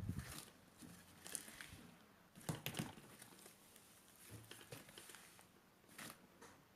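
Faint, irregular crinkling and rustling handling noises, with the loudest crackles about two and a half to three seconds in.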